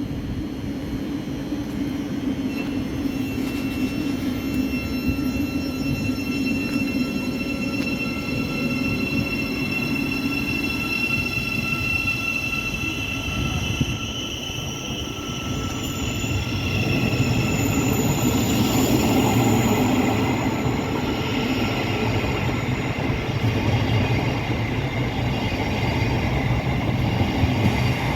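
Electric passenger train running on the Cambridge line, a steady high whine over a low rumble, getting louder in the second half.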